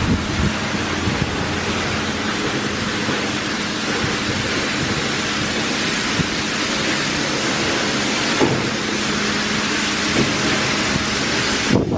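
Oasis Monsoon automatic car wash spraying water onto the car: a steady heavy hiss of spray with a low machine hum underneath, cutting off suddenly near the end.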